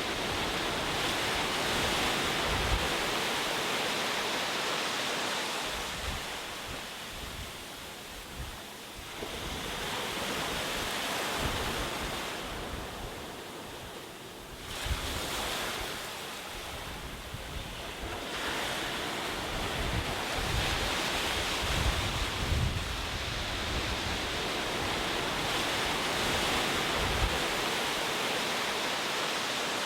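Ocean waves breaking and washing on a shore, swelling and easing in slow surges every several seconds, with wind noise.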